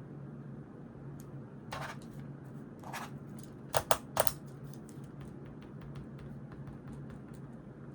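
Paper and stationery handled at a study desk: a couple of short rustles, then three quick sharp rustling strokes in the middle, over a steady low room hum with faint pen ticks.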